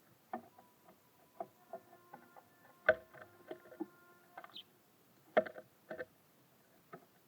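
Irregular knocks and taps of small birds pecking and landing on a bird feeder, some taps leaving a brief ringing, with the loudest two about three seconds in and again a little past five seconds.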